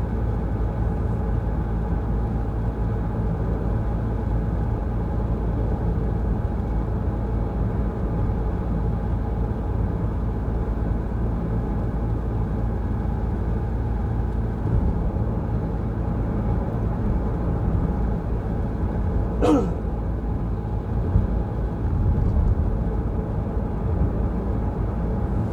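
Steady low road and engine rumble of a moving car, heard from inside the cabin, with one short pitched sound sliding up and down about two-thirds of the way through.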